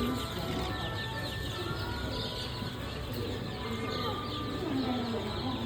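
Animal-enclosure ambience: many small birds chirping densely, with scattered animal calls, over a steady low hum.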